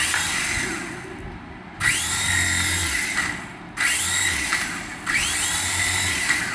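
Small electric toy motor whirring in four bursts of about a second each, its pitch rising as it spins up and falling as it stops.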